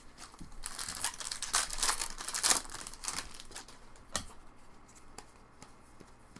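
Crinkling and tearing of a plastic trading-card pack wrapper as it is opened, busiest in the first half, followed by a few sharp clicks, the clearest about four seconds in.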